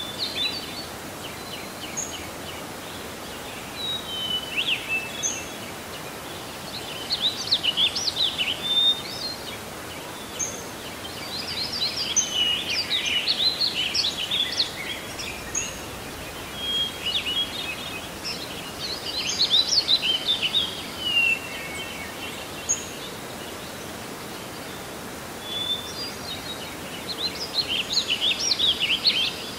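Birds singing: short high chirps and bursts of quick trilling phrases that come and go every few seconds, over a steady background hiss.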